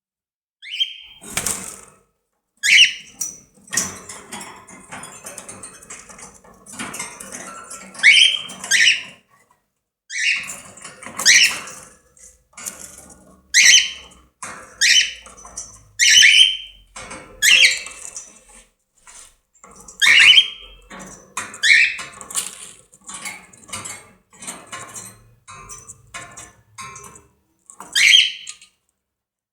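Cockatiel calling: loud, high-pitched calls repeated every second or two, with softer chattering between them.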